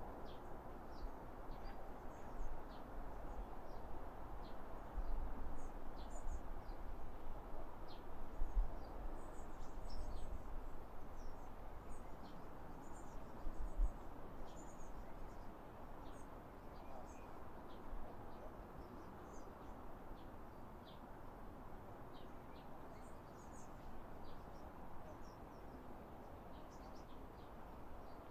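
Small songbirds giving many short, high, thin chirps, scattered irregularly throughout, over a steady low background rumble that is stronger in the first half.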